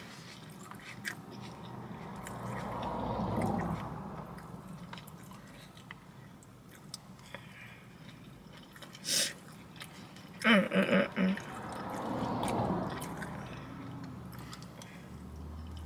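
Close-up chewing of a salad bowl of lettuce and vegetables, with a fork clicking against the bowl. A low rushing sound swells and fades twice, and a brief hum-like voiced sound comes about ten and a half seconds in.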